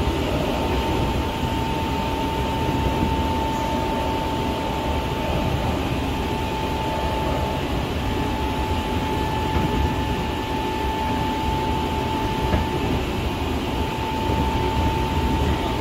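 Hankyu Kyoto Line Kyo-train Garaku running at speed, heard from inside the passenger car: a steady rumble of wheels on rail with a constant high tone.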